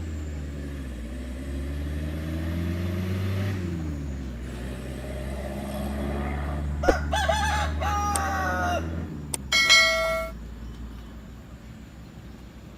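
A rooster crowing once about seven seconds in: a wavering start and a long held note. Under it is the low hum of a passing motor vehicle, rising and falling in pitch, and a brief loud steady tone follows the crow just before the hum fades out.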